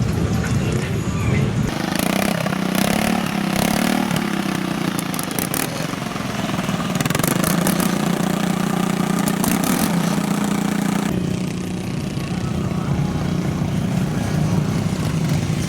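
Off-road vehicle engines running, changing abruptly about two seconds in and again about eleven seconds in.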